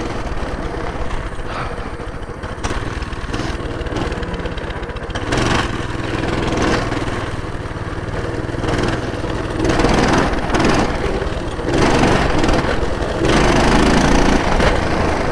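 Coleman minibike's small single-cylinder engine running steadily, with louder noisy stretches about five seconds in and again toward the end.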